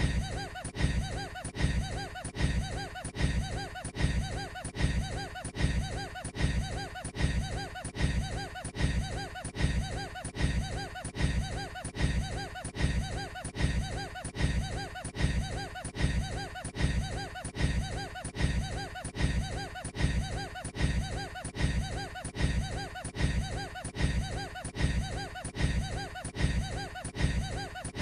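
A man's weird, breathy laugh, a short clip looped so that it repeats about once a second.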